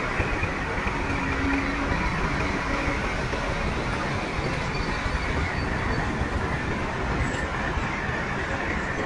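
A bulldozer at work, its diesel engine running steadily.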